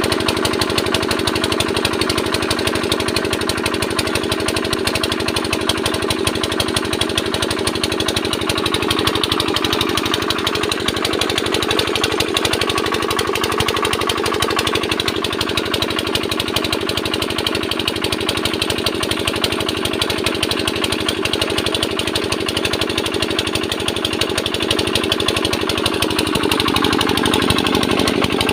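Comet 85 mm diesel engine running steadily, with a rapid, even knocking beat.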